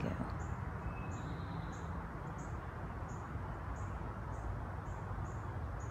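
A small bird's short, high chirps, repeated about twice a second, over a steady low outdoor background noise.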